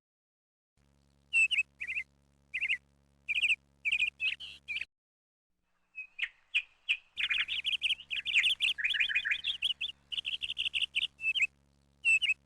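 A songbird singing: a phrase of quick, sharp chirps, a short pause, then a longer, denser run of rapid chirps and trills, with a last brief phrase near the end.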